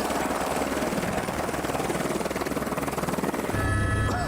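Helicopter in flight, its rotor making a fast steady chop over engine noise. About three and a half seconds in the sound changes abruptly to a steadier low hum with several steady whining tones.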